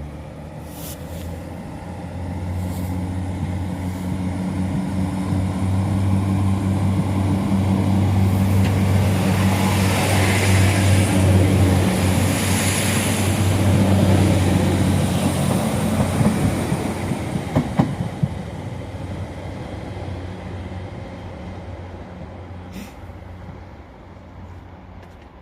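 Diesel multiple-unit train passing through the station. Its steady engine drone and wheel noise build to a peak about halfway through, then fade as it moves away.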